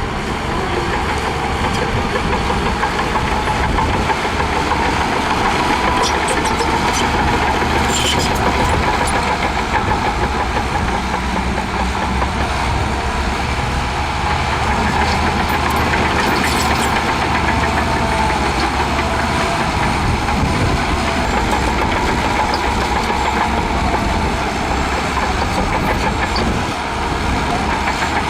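Shantui DH17C2 bulldozer's diesel engine running steadily under load as it pushes sand. A few short metallic clanks come about eight seconds in and again around sixteen seconds.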